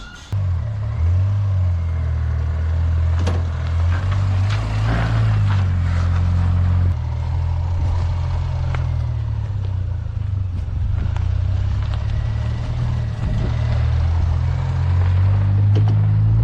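Austin Mini's engine running steadily while the car is driven, with its note shifting about seven seconds in and scattered knocks and thumps from the car.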